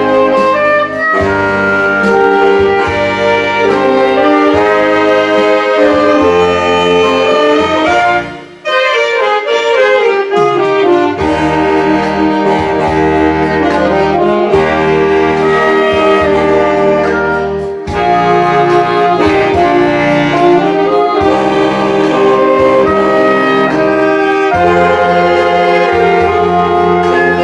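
Saxophone ensemble playing a melody in several-part harmony over a karaoke-style accompaniment machine backing track with bass. The music breaks off briefly about eight seconds in, then resumes.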